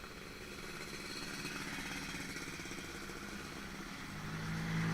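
A motor vehicle passing on the street, with the hiss of its approach building through the middle and its engine drawing close and loudest near the end.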